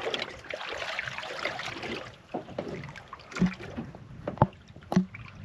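Water sloshing against a small boat's hull, with fine rustling and ticks, then three sharp knocks of handling on the boat in the second half.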